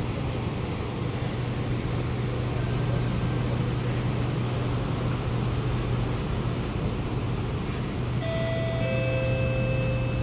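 Steady low hum of a stationary Kawasaki Nippon Sharyo C751B train's onboard equipment while standing at a platform with its doors open. About eight seconds in, a two-note electronic chime sounds, a higher held tone and then a lower one: the warning that the doors are about to close.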